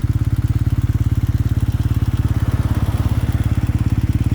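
Vehicle engine running steadily at an even speed, heard from on board while travelling; its fast, regular firing pulses stay low and unchanging.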